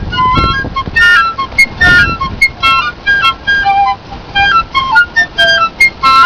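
Piccolo playing quick, bird-like phrases of short, high, stepping notes.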